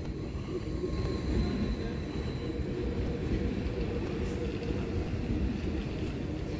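A train running in a station: a steady low rumble, with faint thin high tones about a second in.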